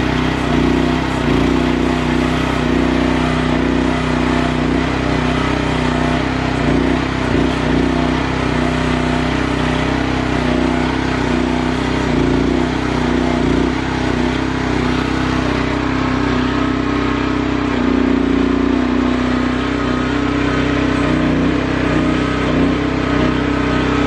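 Small engine of a QH12 mini excavator running at a steady speed, an even drone with no sudden changes.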